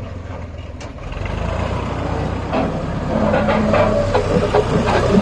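Tractor diesel engine running under load while pulling a fully loaded soil trolley, growing louder about a second in.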